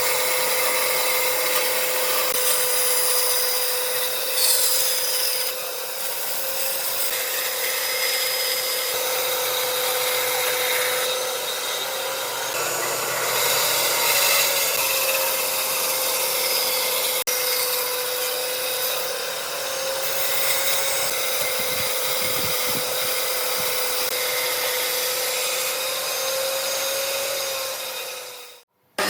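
An electric power tool runs steadily as it works wood, its motor holding a steady whine over the hiss of the cut. It stops abruptly near the end.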